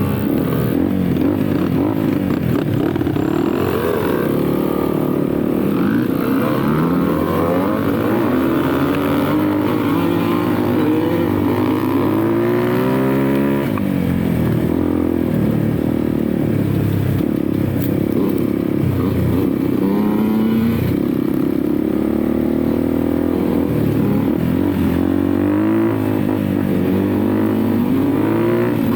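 Dirt bike engine being ridden hard, its revs repeatedly rising and falling as the rider works the throttle and gears, with some clatter over the rough ground.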